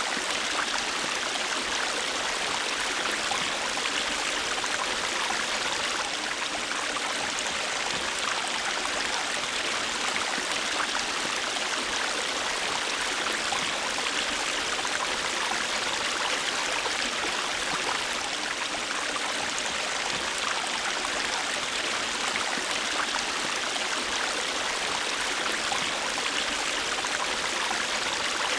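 A river or stream flowing over rocks: a steady rushing and babbling of water, unbroken throughout.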